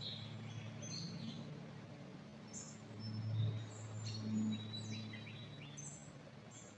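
Several small birds chirping and whistling, short high calls overlapping from different birds, over a low steady hum.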